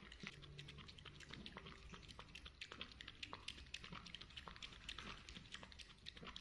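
A cat lapping liquid from a saucer: a quick run of faint, soft clicks, about four or five a second.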